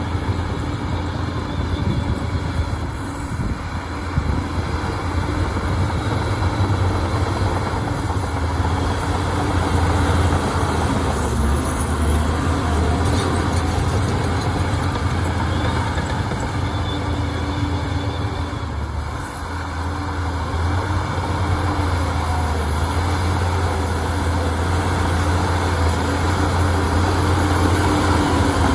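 Shantui bulldozer's diesel engine running steadily under work, with a deep low hum; it eases briefly about three seconds in and again past the middle, then builds slightly toward the end.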